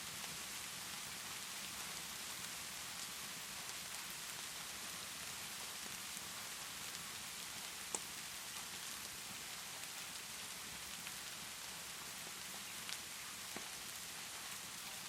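Steady rainfall hiss with a few sharp crackles from a wood fire, the loudest about halfway through and two smaller ones near the end.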